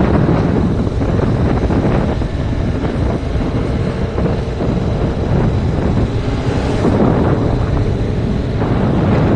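Heavy wind buffeting on an action camera's microphone on a moving Yamaha MT-07 motorcycle, a loud, steady, rumbling rush that swamps the ride.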